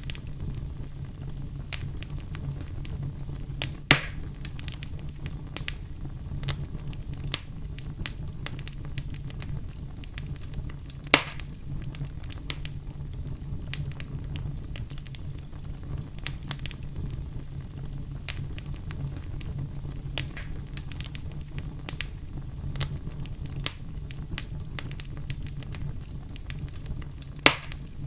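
Wood fire burning in a fireplace: a steady low rumble with frequent small crackles and three louder pops, about four seconds in, at eleven seconds and near the end.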